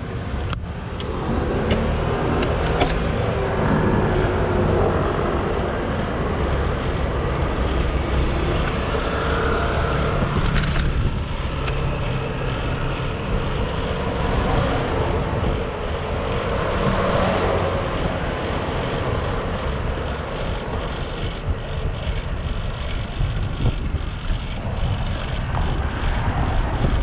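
Steady riding noise from a moving bicycle heard through a bike-mounted camera: a low rumble with a rushing haze over it and a few clicks.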